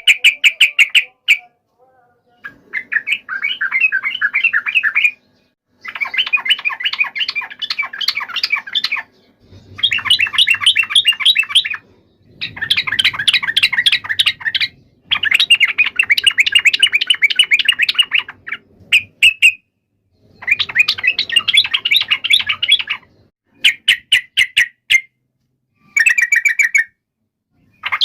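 Sooty-headed bulbuls (trucuk) singing in a fast, chattering, fighting-style song. The song comes in repeated loud bursts of a few seconds each, broken by short pauses.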